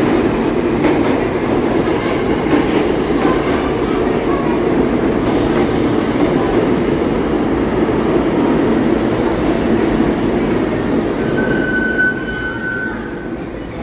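New York City subway train running on the rails: a loud, steady rumble of wheels and running gear that eases about twelve seconds in, with a brief high-pitched squeal near the end.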